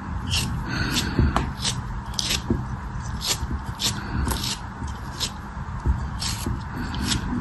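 Repeated crisp scraping and crunching strokes, about two a second and unevenly spaced, as a tool cuts and crushes a soft, crumbly material.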